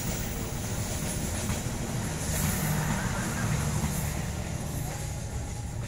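Passenger train coaches rolling past, a steady rumble of steel wheels on rail with a hiss above it.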